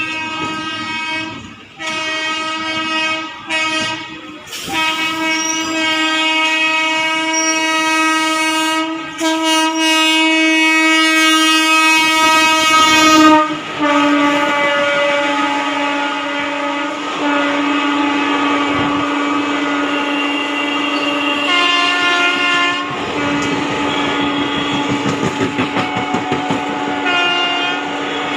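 Indian Railways express locomotive sounding its horn: a few short blasts, then a long sustained blast whose pitch drops slightly as the train passes. Rapid rhythmic wheel clatter over rail joints comes in near the end.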